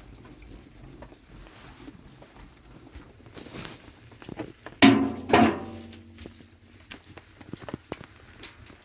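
Two sharp knocks, about half a second apart near the middle, each ringing on briefly, among scattered small clicks and handling noises.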